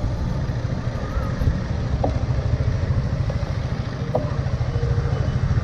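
Motor vehicle engine running steadily on the road, a low, evenly pulsing rumble with road noise.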